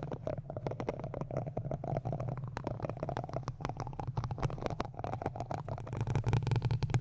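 Close-miked ASMR trigger sounds: a fast, dense run of small clicks and taps over a steady low rumble, growing busier near the end.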